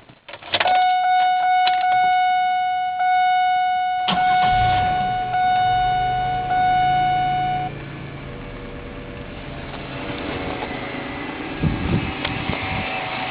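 Car engine making a weird, loud, steady high-pitched whine. The engine starts about four seconds in, the whine cuts off suddenly about eight seconds in, and the engine runs on at a steady idle.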